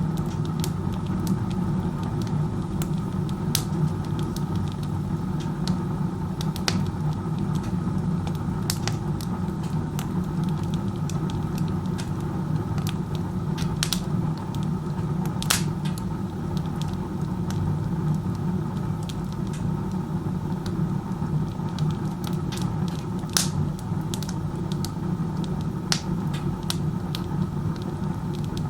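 Wood stove burning with its door open like a fireplace, the chimney drawing air so hard that it makes a steady low rumble. Sharp pops from the burning wood come here and there. So strong a draw means the fire burns inefficiently.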